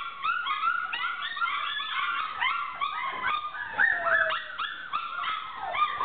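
A litter of four-week-old puppies howling, yipping and whimpering all at once, many short high-pitched overlapping cries, with one longer falling wail about four seconds in.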